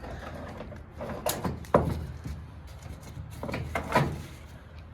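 A few sharp clunks and knocks over a low rumble, from the car and its cable gear as the roller GTO is let down the slope.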